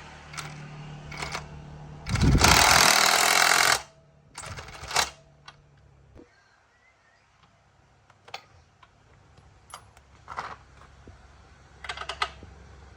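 A short, loud burst of a pneumatic impact wrench hammering for under two seconds, about two seconds in, followed by scattered metallic clicks and knocks of tools on motorbike parts.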